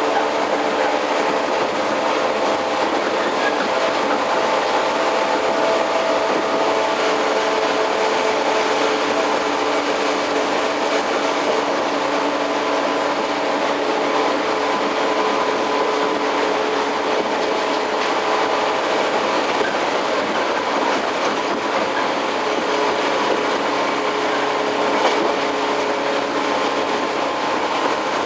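Running sound inside a JR 115 series electric multiple-unit motor car at speed. The steady whine of its DC traction motors and gears rides over rumble and wheel clatter on the rails, and the whine's tones shift about two-thirds of the way through.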